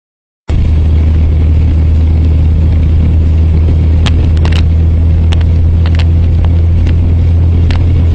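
Car cabin noise picked up by a dashcam: a loud, steady low drone of engine and road noise that cuts in suddenly about half a second in, with a few short clicks in the middle and near the end.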